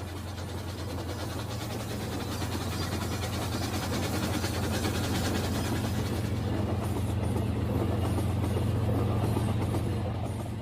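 Rail King battery-powered toy train running on its plastic track: a steady motor hum with rattling wheels. It slowly gets louder, then fades near the end as it moves away.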